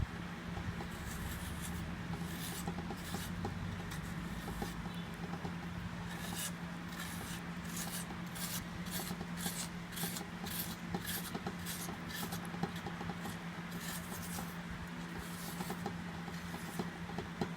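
A kitchen utensil rubbing and scraping against a container, becoming a run of sharp scraping strokes at about two a second through the middle part, over a steady low hum.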